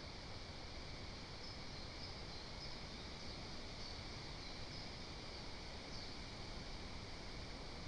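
Forest ambience: a steady hiss with faint, brief high bird chirps scattered through it.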